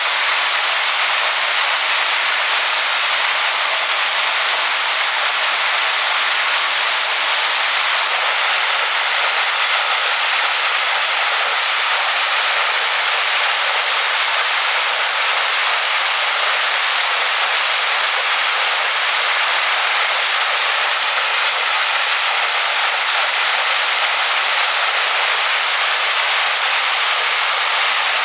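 Waterfall pouring over rocks: a steady, unbroken hiss of falling water, strongest in the high end with little low rumble.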